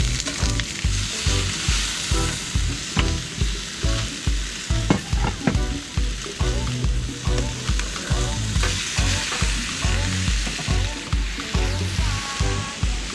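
Sizzling, like food frying in a pan, over background music with a steady bass beat of about two pulses a second.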